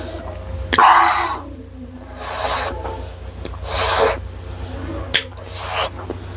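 Close-up eating sounds: a series of short, hissy mouth noises, slurps and sharp breaths, about one every second and a half. The loudest comes about a second in, and there is a small click a little after five seconds.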